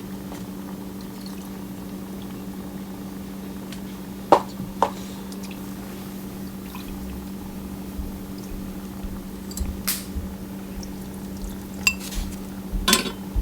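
Water being poured into a cooking pot, with a few sharp clinks of utensils against the vessel, over a steady low electrical hum.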